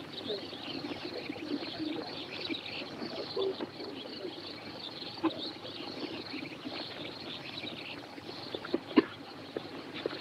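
Birds calling: quick high chirps over low cooing, with a few sharp clicks near the end.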